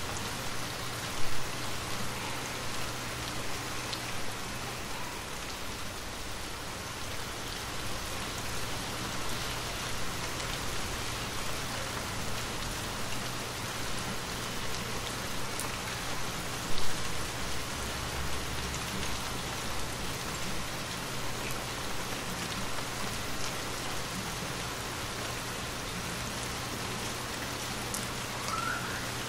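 Steady rain falling on a hard surface, an even hiss, with two brief louder knocks about a second in and about halfway through.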